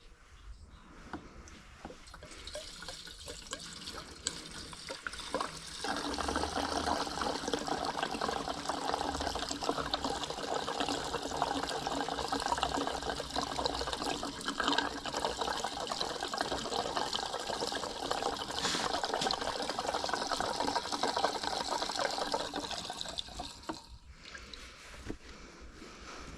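Gasoline pouring from a gas can into a snowblower's fuel tank, a steady stream that grows louder about six seconds in and stops near the end.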